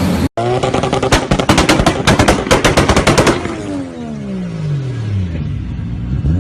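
Toyota Supra's turbocharged straight-six held at high revs with a rapid string of sharp bangs and crackles from the exhaust for about three seconds. The revs then drop away in a falling note and settle.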